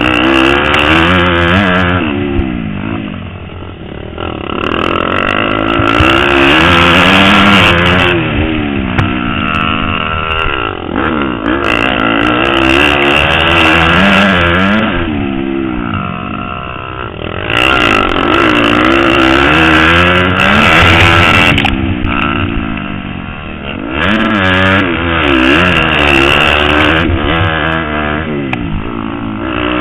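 Motocross bike engine under racing throttle, revving up and easing off again and again, its pitch climbing and falling every few seconds.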